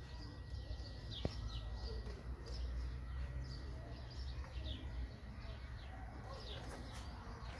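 Small birds chirping: short, high, falling chirps, one or two a second, over a low rumble, with a single click about a second in.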